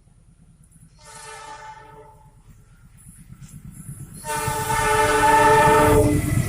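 Train horn sounding a short blast about a second in, then a long, loud blast from about four seconds in that stops shortly before the end, over the rumble of the train, which grows louder as it approaches.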